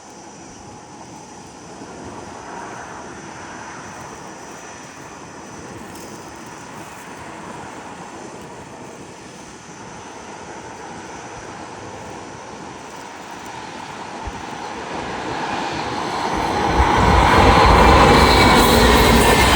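An approaching train's rumble that starts distant and steady, then swells to loud in the last few seconds as the train nears and reaches the spot.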